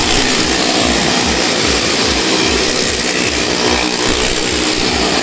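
Small motorcycle engine running hard at high revs as it circles the wall of a well-of-death drum, loud and unbroken.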